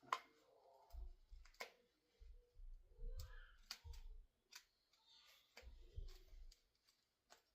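Scissors snipping a few times, sharp separate clicks spread apart, with faint low handling noise between the cuts.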